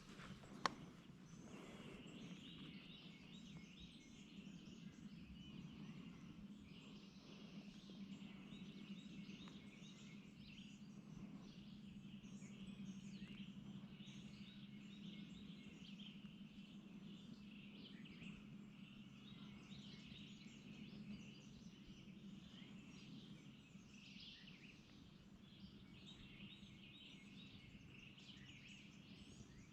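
Quiet woodland ambience: faint, distant birds chirping throughout over a steady low hum, with a single sharp click about a second in.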